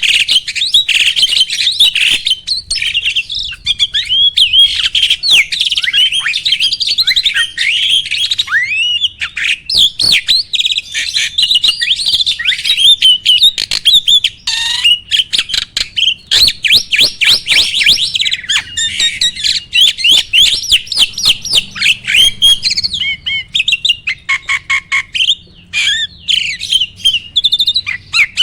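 A caged starling (jalak) singing: a fast, unbroken run of chirps, whistled up-and-down glides and rapid rattling note series, with sharp clicking notes among them.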